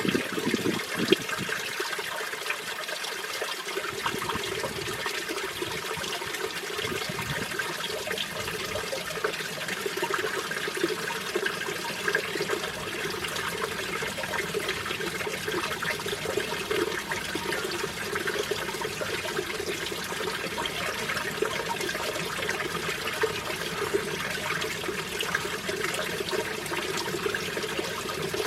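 Mountain valley stream running, a steady rushing and splashing of flowing water.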